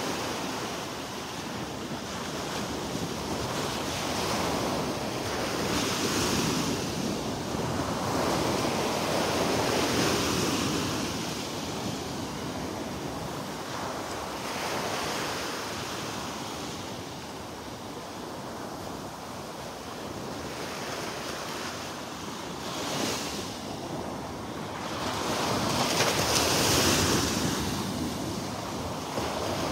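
Small waves breaking and washing up on the beach, swelling and easing every few seconds, with wind buffeting the microphone.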